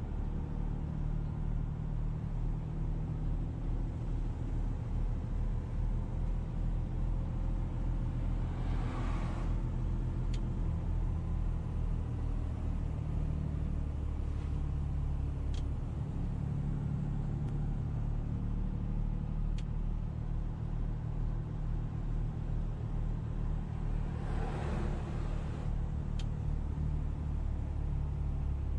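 Car engine running steadily with road noise, twice swelling briefly into a whoosh.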